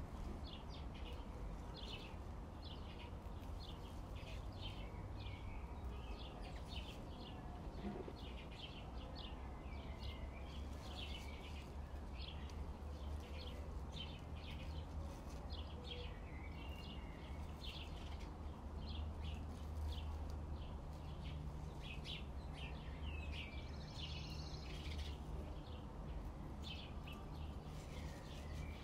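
Small birds chirping: many short, quick chirps one after another, over a low steady background rumble.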